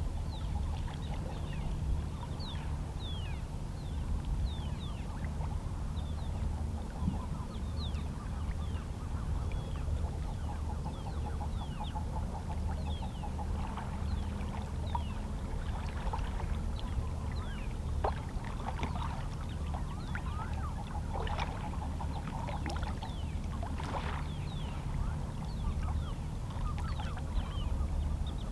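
Calm sea waves lapping against shoreline rocks, a steady low wash with a few brief splashes, while seabirds call over it with many short, quick cries throughout.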